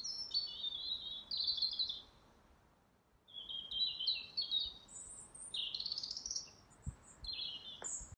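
Songbird singing quick chirping, warbling phrases: one phrase in the first two seconds, then after a short pause a longer run of phrases to the end.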